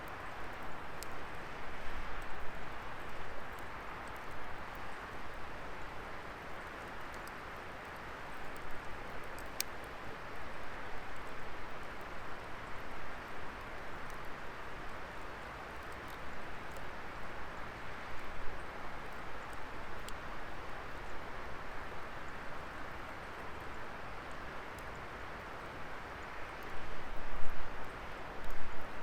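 Wood fire burning with a steady rushing hiss of flames and scattered sharp crackles and pops, and a louder surge near the end.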